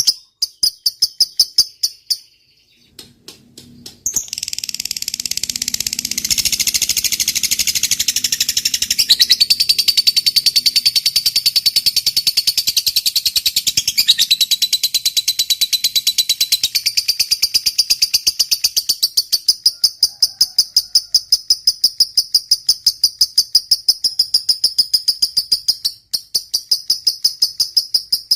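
Lovebird 'ngekek panjang': a long, unbroken chattering trill of rapid, high, sharp chips. It is the long chatter prized in a singing fighter lovebird. A few separate chirps and a short pause come first, and the trill sets in about four seconds in, with one brief break near the end.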